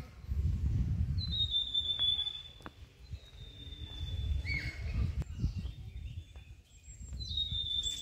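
A bird calling with three long, high, slightly falling whistles and one short upslurred note midway. A low, uneven rumble on the phone's microphone runs beneath.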